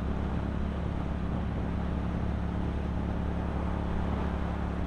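Royal Enfield Interceptor 650's parallel-twin engine running steadily at a held cruising speed, its low note even throughout, with road and wind noise underneath.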